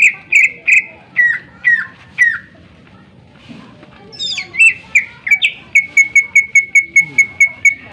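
Cucak ijo (green leafbird) singing loud, clear whistled notes. First comes a phrase of about six short falling notes, then a pause, then a few varied notes leading into a fast run of about ten identical notes, roughly five a second.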